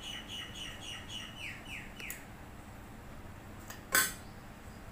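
A bird calls a quick run of short chirps, about four a second, each falling in pitch, stopping a little after two seconds in. About four seconds in, a metal spoon knocks once against a stainless steel bowl with a sharp, ringing clink.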